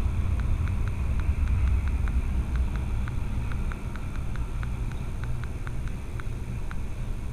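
Low, steady vehicle rumble picked up by a dashcam, with a run of faint, short ticks several times a second.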